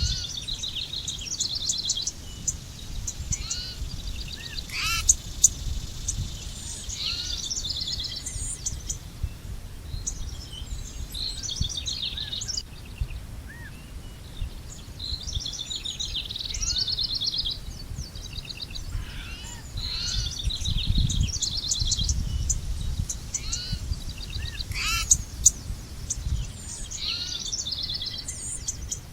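Several songbirds singing at once, with repeated chirps and fast trilled phrases overlapping throughout, and a few sharp loud notes about five seconds in and near the end. A steady low rumble runs underneath.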